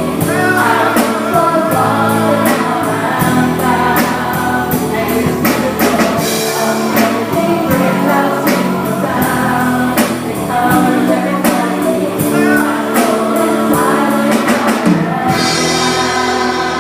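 Church worship band and singers performing a gospel song: voices over held chords with a steady drum and tambourine beat. The beat drops out near the end, leaving sustained chords.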